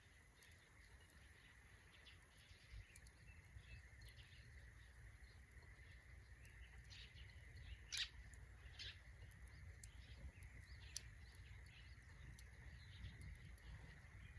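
Faint crackling of a small wood fire, with scattered small pops, the sharpest about eight seconds in, over a steady faint hum.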